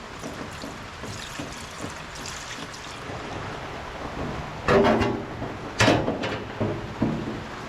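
Coolant being poured into the tractor's radiator, a low steady trickle, followed by three loud knocks about a second apart in the second half.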